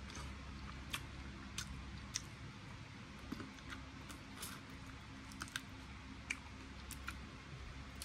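Quiet mouth sounds of someone eating a sauced fried chicken wing: scattered soft clicks and crunches from biting and chewing, irregular and spaced about a second apart, over a faint steady hum.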